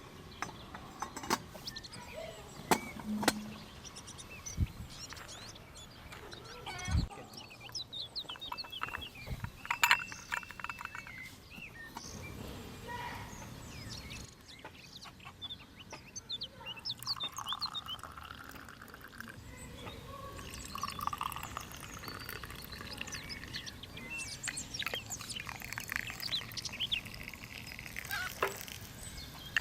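Birds chirping, with scattered sharp knocks and clinks throughout.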